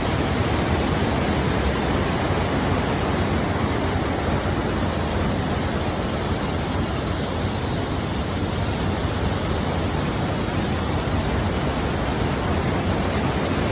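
Flowing water, a steady dense rush with no change.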